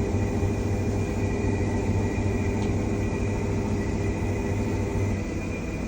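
Washing machine drum spinning in the last minute of its cycle: a steady low hum with a thin high whine over it.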